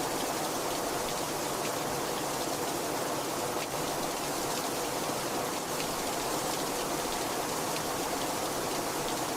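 Heavy rain falling steadily, an even hiss with many small drop ticks.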